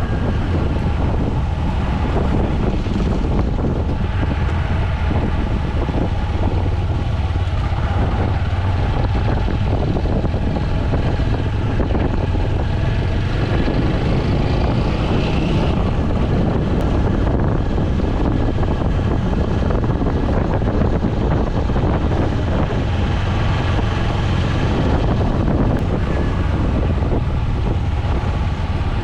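TVS Apache 200 motorcycle's single-cylinder engine running steadily while riding, with wind on the microphone.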